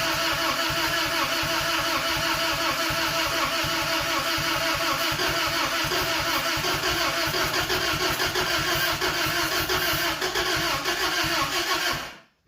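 1992 Isuzu pickup's engine cranking over on the starter with the throttle opened, in steady rapid pulses with a whine over them, then stopping abruptly near the end. The owners take its uneven running for a lack of spark on some cylinders.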